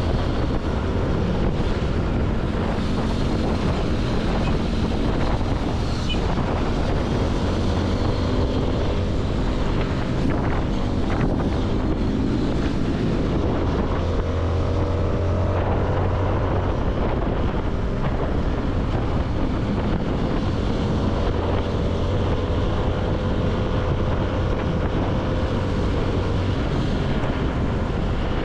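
CFMoto motorcycle engine running steadily at road speed, with strong wind noise buffeting the microphone; the engine hum swells and its pitch shifts a little in the middle.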